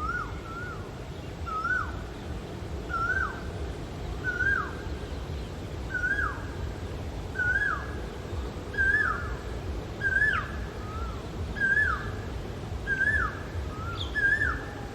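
Male Asian koel calling: a series of about ten short hooked notes, one roughly every second and a half, creeping slightly higher in pitch as the series goes on. A steady low background rumble lies under it.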